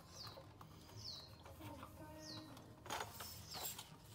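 Birds calling in short falling whistles, one every second or so. Around three seconds in, two louder clattering knocks from handling.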